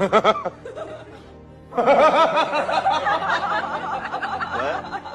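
Music with bursts of laughter: a short burst at the start, then a longer, loud run of quickly wavering, pitched laughing sounds from about two seconds in until near the end.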